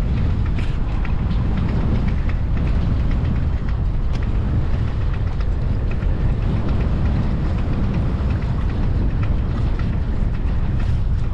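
A Hurley 22 sailboat's engine running steadily, mixed with strong wind buffeting the microphone: a continuous low rumble with a few faint clicks and knocks.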